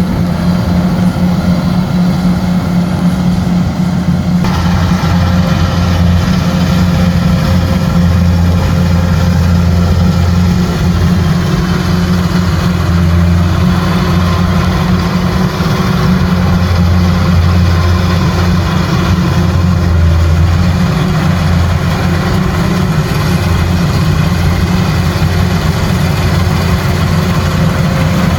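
Kubota rice combine harvester running steadily with a deep engine hum; about four seconds in, a brighter mechanical clatter joins it.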